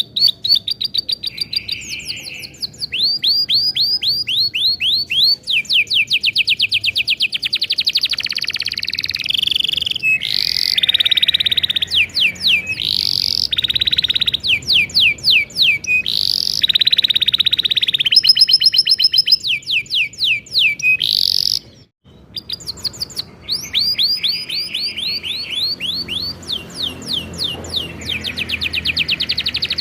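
Domestic canary singing a long, loud song of fast trills and rolls: quick runs of repeated sweeping notes, broken by one short pause about 22 seconds in.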